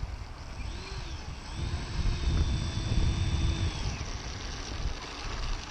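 Electric ducted-fan motors of a Supreme Hobby RC Airbus A320 whining as the throttle is blipped for taxiing: a short rise and fall about a second in, then a longer burst held for about two seconds before spooling down. A low wind rumble on the microphone runs underneath.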